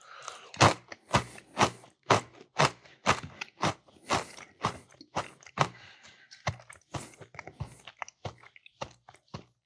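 Close-up chewing of crunchy Cheez-It crackers, about two crisp crunches a second, growing softer and more irregular in the last few seconds.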